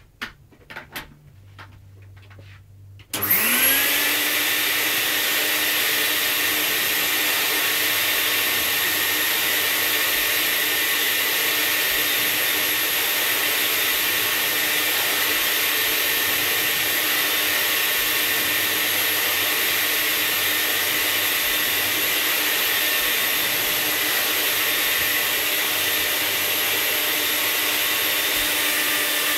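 A Vax 121 1000-watt vacuum cleaner switched on about three seconds in, after a few light clicks. Its motor spins up quickly, then runs steadily with a rush of air and a steady whine.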